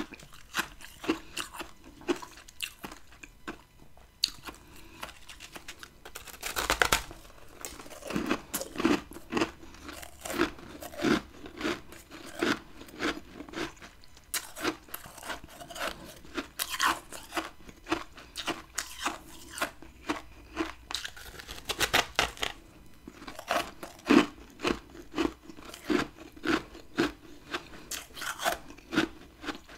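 Close-up crunching of a person biting and chewing chunks of freezer frost ice: a few loud bites, each followed by a run of crisp chewing crunches about two a second.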